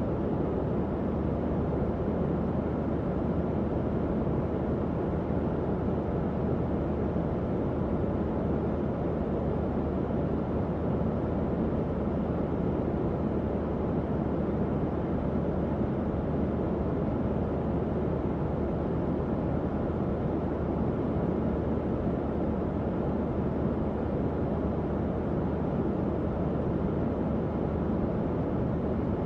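Tower fan running steadily, a constant airy whoosh with most of its weight low down and a faint low hum under it.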